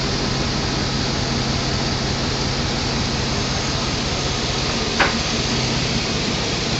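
Rebuilt Chevrolet Tahoe engine idling steadily with a low, even hum, running smooth without shaking. A single sharp click about five seconds in.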